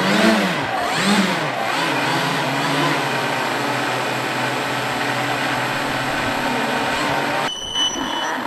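Motors of a radio-controlled multi-motor UFO model revving up and down for the first second or so, then running at a steady pitch. The sound changes abruptly near the end, with a brief high-pitched whine.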